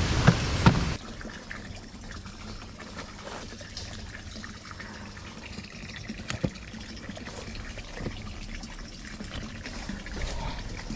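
Stream water rushing loudly with a couple of sharp clicks, dropping suddenly about a second in to a quieter steady trickle of water with a few faint clicks.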